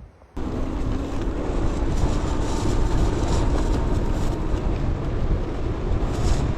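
Strong wind buffeting the microphone: a loud, steady rumbling rush that cuts in suddenly just after the start and holds.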